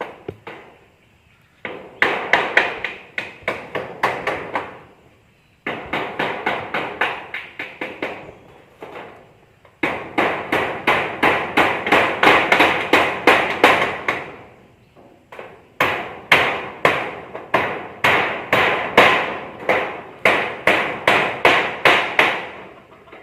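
A hammer striking rapidly, about four to five blows a second, in four runs with short pauses between them.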